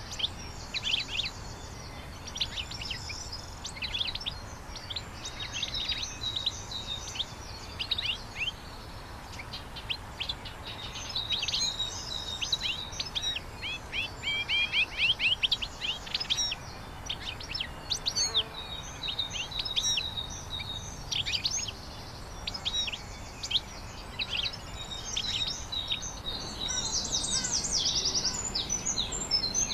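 Small birds chirping and twittering: many short, quick high calls and brief trills, overlapping throughout, over a low steady outdoor background.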